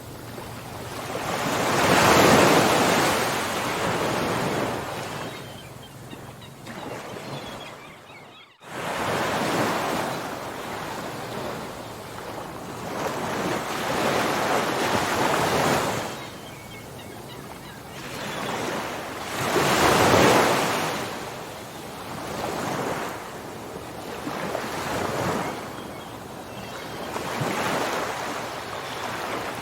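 Ocean waves breaking and washing on a shore, the surf swelling and fading every several seconds, loudest in a few big surges. About eight seconds in, the sound cuts out abruptly for a moment and comes straight back.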